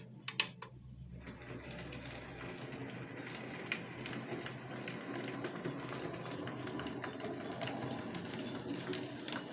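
Electric point motors on a 00 gauge model railway snapping over, two sharp clicks about half a second in. A model locomotive then runs along the track with a steady small-motor whirr and light ticking over the rail joints, getting slightly louder.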